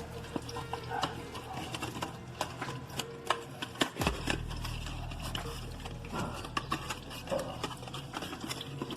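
Irregular light clicks and knocks of parts and tools being handled during an oil and filter change, over a low steady hum.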